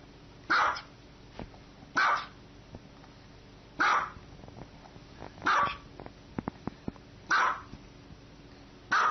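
A dog barking in single loud barks, six in all, one every second and a half to two seconds.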